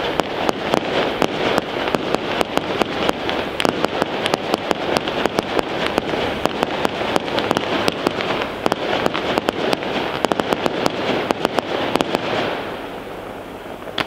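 Fireworks display: aerial shells bursting in a dense, rapid run of sharp bangs, several a second. The barrage dies away about a second and a half before the end.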